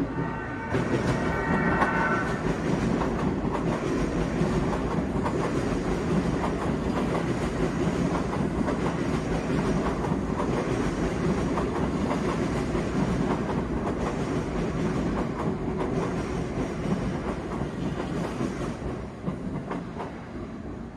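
Seibu Railway 20000 series electric commuter train running past on the tracks below, wheels clattering over rail joints and points in a steady rumble. A brief high whine is heard in the first two seconds, and the sound fades near the end as the train moves on.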